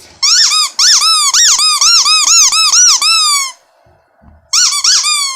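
Rubber squeaky dog toy squeezed over and over, a quick run of high squeaks that rise and fall in pitch, about four a second, then a short pause and a few more near the end.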